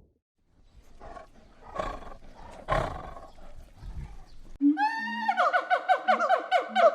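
A large animal roaring and growling in several rough calls, then, after a sudden cut, a different animal's high, pitched call of rapid repeated notes, about seven a second.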